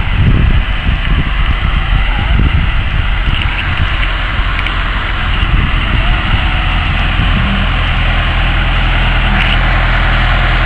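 A vehicle engine running, with a heavy rumble that swells unevenly at first and settles into a steady drone about seven seconds in.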